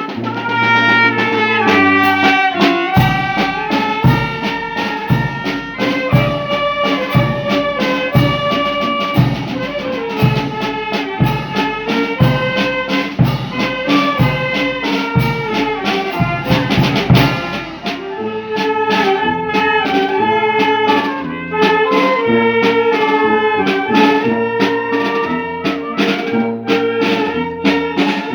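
Brass band music: saxophone and trumpet melody over a steady drum beat.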